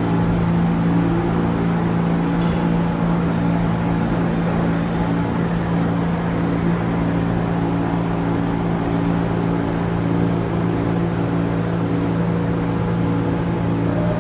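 Subway train running with a steady low hum of several level tones over a rumble, unchanging throughout.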